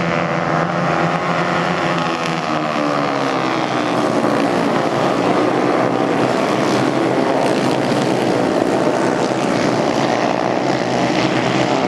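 Several racing motorcycle engines running hard together, their pitch rising and falling as the bikes go by.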